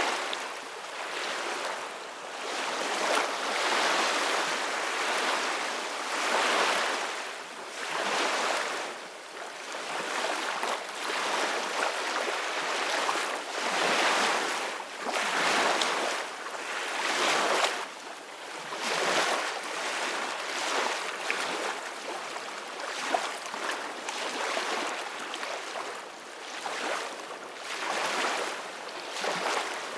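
Ocean waves breaking and washing ashore, a continuous surf hiss that swells and fades with each wave every couple of seconds.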